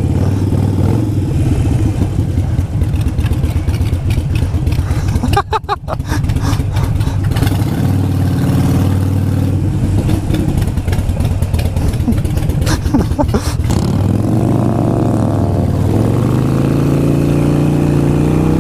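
Motorcycle engine running under way, the rider's own bike heard close up on the on-board microphone. It dips briefly about five seconds in, then rises in pitch toward the end as the bike accelerates.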